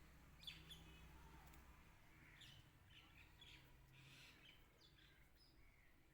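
Near silence with faint, scattered bird chirps in the background and a low hum.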